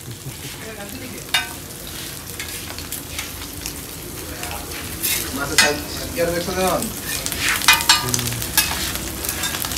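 Eggplant slices and hilsa fish pieces frying in oil on a large flat iron griddle, with a steady sizzle. A metal spatula scrapes and clicks against the griddle several times, most in the second half.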